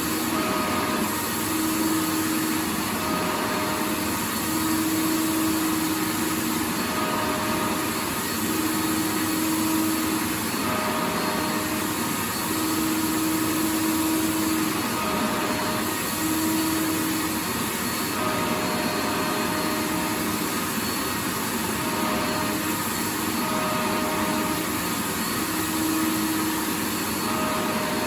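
Vacuum cleaner running continuously: a steady rushing noise with a motor hum that comes and goes every second or two.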